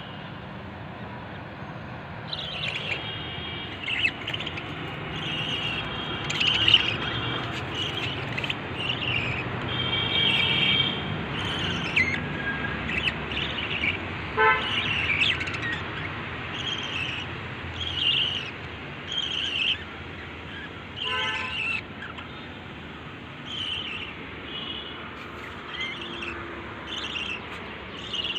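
Lovebirds chirping: many short, high-pitched calls in quick succession over a steady low background hum.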